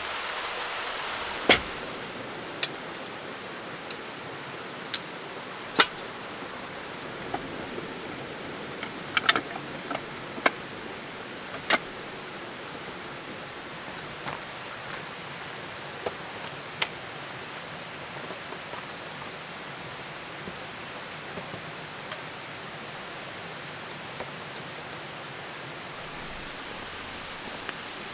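Steady rushing noise with scattered sharp clicks or pops at irregular intervals, most of them in the first dozen seconds.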